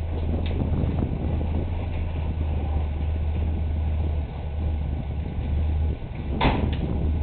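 1960 Dodge Dart Seneca's engine idling steadily just after a cold start. A single sharp clunk sounds near the end.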